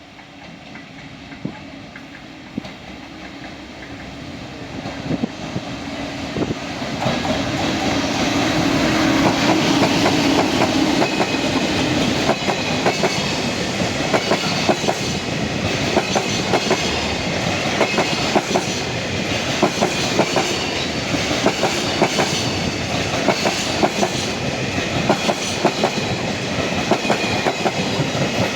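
An EF510 electric locomotive approaches and passes at speed, hauling a train of container wagons. The noise builds steadily for about nine seconds, then the wagons roll by with a rhythmic clickety-clack of wheels over rail joints.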